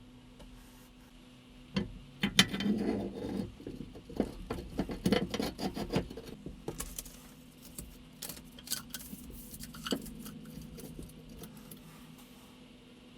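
Irregular clicks, taps and light rattling of small hard objects being handled. They are busiest from about two to six seconds in, with a few scattered knocks after that, and one sharper knock near ten seconds.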